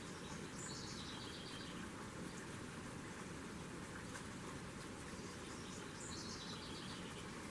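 A songbird singing the same short song twice, about five seconds apart: a high series of notes stepping down in pitch and ending in a quick trill, over a steady outdoor hiss.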